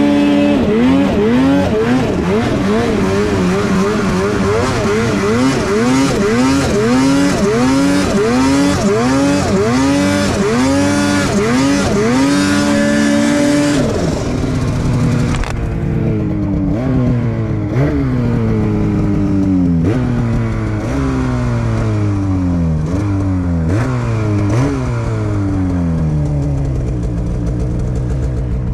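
Snowmobile engine revving in quick, repeated surges, about one and a half a second. About halfway through, the pitch drops and the surges come slower, each one falling away, before the engine settles to a steady lower note near the end.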